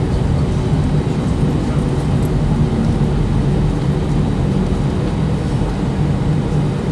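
Airbus A320 cabin noise after landing: a steady engine hum with low rumble as the airliner rolls on the ground.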